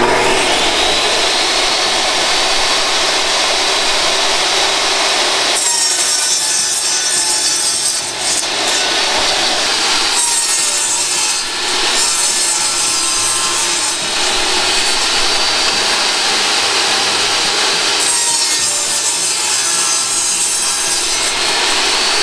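A saw cutting thin scrap beadboard panels: a steady, continuous rasping cut that changes texture a few times.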